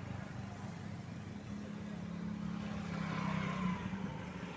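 Motor vehicle engine running steadily with a low hum, over general road traffic noise.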